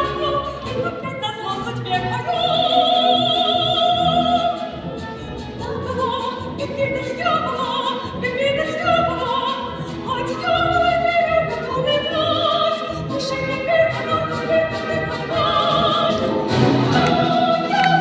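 A woman singing an operetta song in full voice over an orchestra, holding several long notes with a wide vibrato.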